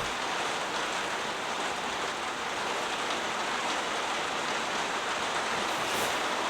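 Heavy rain falling steadily on a hut roof, an even, unbroken hiss.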